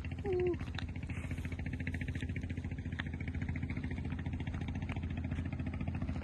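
An engine running steadily at idle, with a low hum and a fast, even beat. About half a second in there is a brief short tone.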